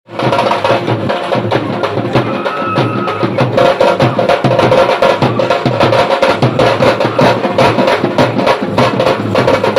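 Loud festival music driven by rapid, continuous drumming, with a brief high held tone about two and a half seconds in.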